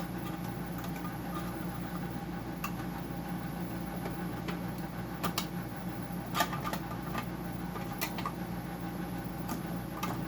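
A screwdriver prying and scraping against the plastic standoffs under a dehumidifier's circuit board: a few scattered sharp clicks and scrapes over a steady background hum, the strongest click about six seconds in.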